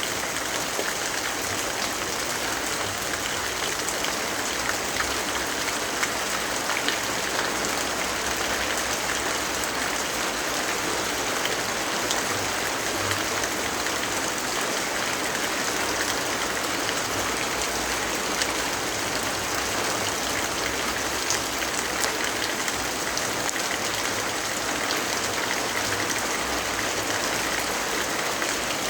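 Steady rainfall: an even hiss of rain with scattered small drop ticks, unchanging throughout.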